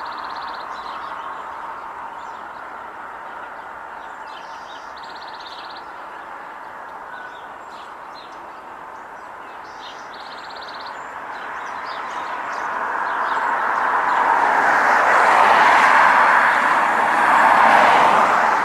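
A vehicle passing, its noise swelling over several seconds to a peak near the end over a steady background of distant traffic. A small bird gives short rapid trills three times.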